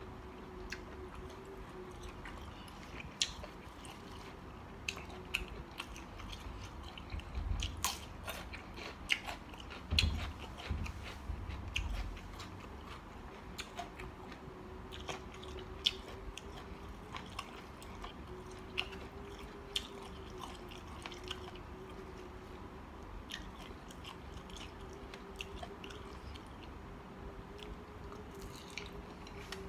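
A person chewing and biting mouthfuls of spicy mixed seafood salad close to the microphone: irregular wet, crunchy chewing clicks, with a few heavier bites about a third of the way in.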